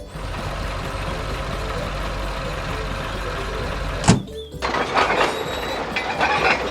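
Tractor engine sound effect running steadily, then a loud thump about four seconds in, followed by a run of shorter knocks and rattles.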